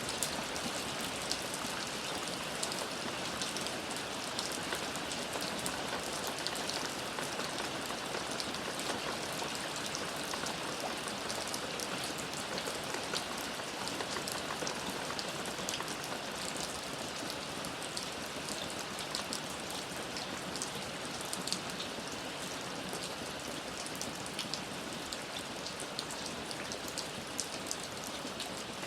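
Steady rain falling, with many close, distinct drops pattering on a surface over a continuous hiss.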